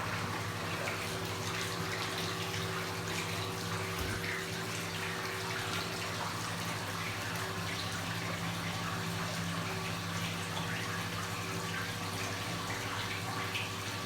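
Kenwood washing machine with water running and splashing inside it, over a steady electrical hum.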